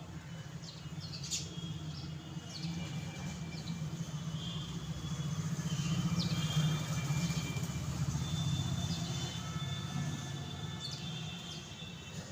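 Sparrows chirping in short, scattered calls, over the low rumble of a passing vehicle that swells to its loudest around the middle and fades away.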